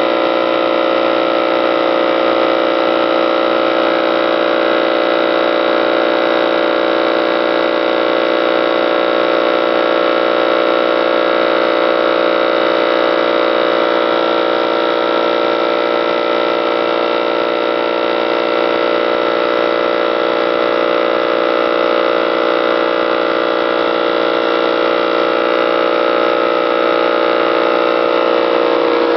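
Radial arm saw fitted with a large shop-made hand-hold cutter head (an 8½-inch sprocket carrying blades ground from planer knives), running together with a shop vacuum pulling off the dust. It makes a steady, even machine whine with several held tones.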